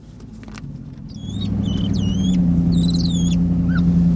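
A capuchin monkey giving a run of high, squeaky chirping calls, upset at the other monkey jumping on her back, over the steady low hum of the vehicle's engine, which grows louder about a second in.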